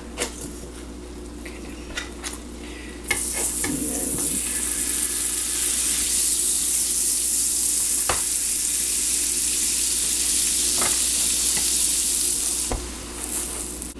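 A few light clicks, then about three seconds in a steady sizzle starts suddenly: butter frying under halved telera rolls toasting on a cooking surface preheated to 350. The sizzle dies down shortly before the end.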